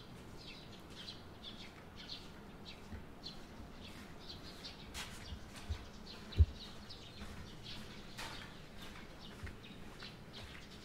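Small birds chirping, short high chirps several times a second, over a few scattered low thuds, the loudest a sharp thump a little past halfway.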